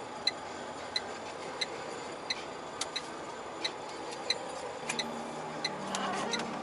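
Turn-signal indicator ticking in a Volvo truck's cab, about three ticks every two seconds, over the steady noise of the running truck. A low hum comes in about five seconds in.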